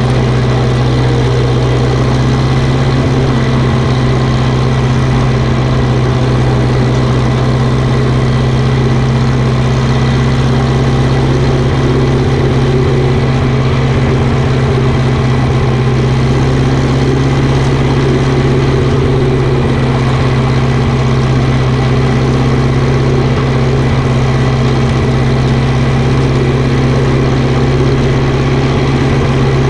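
Engine of a farm vehicle spreading chicken litter running steadily at an even speed: a constant low drone that does not change.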